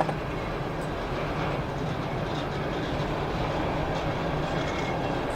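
CSX freight train cars rolling past, a steady run of wheels on rail.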